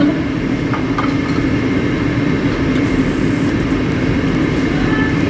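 A steady mechanical hum with a low drone, unchanging in level.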